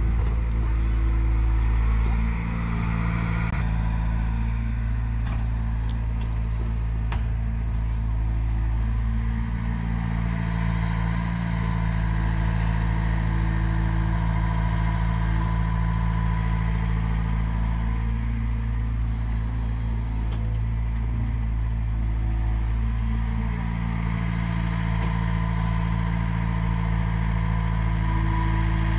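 Heavy earthmoving machine's diesel engine running steadily with a low, even hum, its tone shifting every several seconds.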